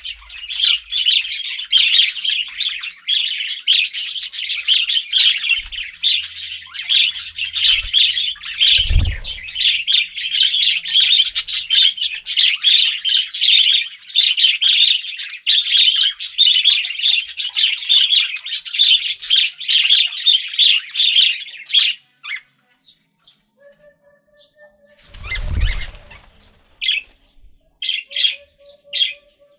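Budgerigars chattering and warbling in a dense, fast stream that stops abruptly about three quarters of the way in, leaving a few scattered short chirps. Two brief low thumps come through, about nine seconds in and again near the end.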